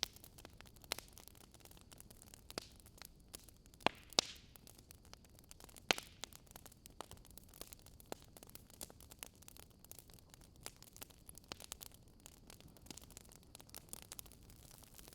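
Wood fire crackling: irregular sharp pops and snaps over a faint steady hiss, with the strongest pops about four and six seconds in.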